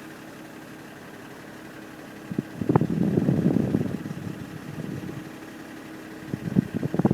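BMW 530d's 3.0-litre straight-six diesel idling, heard at the exhaust tailpipe as a steady hum. A louder burst of rushing noise swells about three seconds in, and a few sharp taps come near the end.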